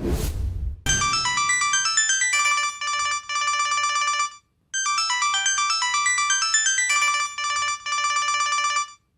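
A whoosh transition effect, then a mobile phone ringtone: a fast melody of short, high notes that plays through twice, with a brief gap about four and a half seconds in.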